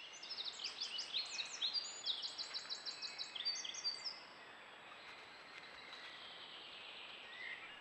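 Songbirds singing: quick runs of repeated high notes for about the first four seconds, then only a faint steady hiss with a last note near the end.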